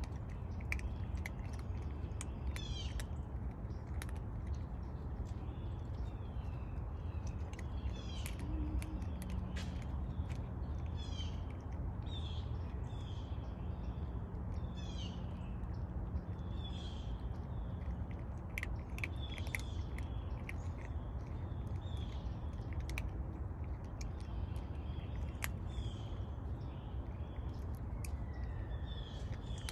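Birds chirping repeatedly, short high calls scattered throughout, over a steady low background rumble.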